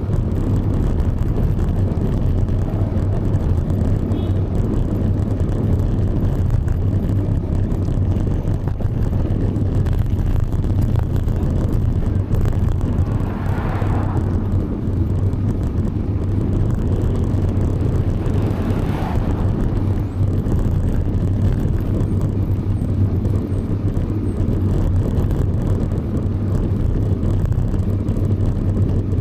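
Steady wind rumble buffeting the microphone of a camera moving along on a bicycle, with two brief rises in higher sound about halfway through and again a few seconds later.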